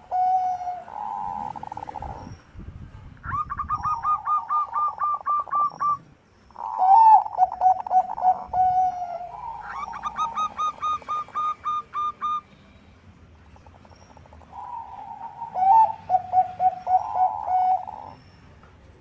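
Zebra doves of the Bangkok song strain cooing: several phrases of rapid staccato coos, one series lower and one higher in pitch, sometimes overlapping, with short pauses between phrases.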